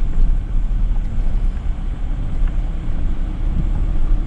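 Toyota Tacoma pickup driving slowly over a dirt forest track: a steady low engine and tyre rumble.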